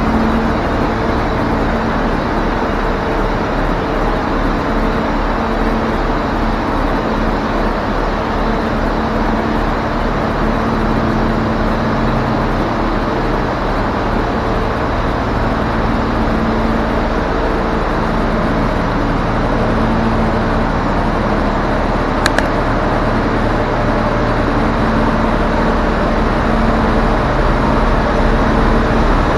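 Diesel engine idling steadily, with a single sharp click about 22 seconds in.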